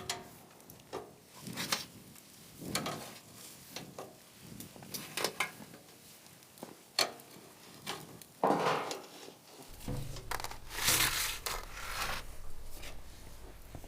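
Irregular clinks, knocks and scrapes of kitchenware and utensils being handled, with a low steady hum joining about two-thirds of the way in.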